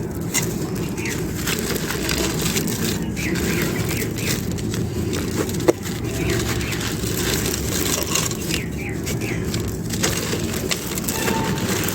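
Dry clay crunching and crumbling, with scattered crackles and one sharper snap about halfway through, over a steady low background rumble.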